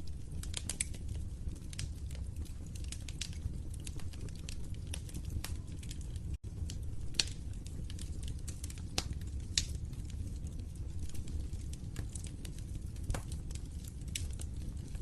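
Wood fire in a fireplace crackling, with sharp pops at irregular intervals over a steady low rumble of flames. The sound cuts out for an instant about six seconds in.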